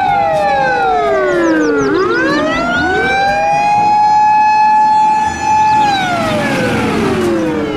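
Japanese fire engine's siren wailing: a long held tone that slides down and climbs back up, holds, then falls again near the end.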